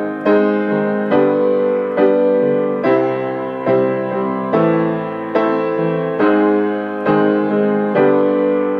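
Piano playing block chords, struck about once a second and left to ring. The chords cycle through C, A minor, A flat and G.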